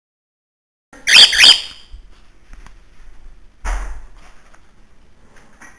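Pet bird calling: two loud, warbling whistled notes about a second in, then a short harsh burst of noise a few seconds later.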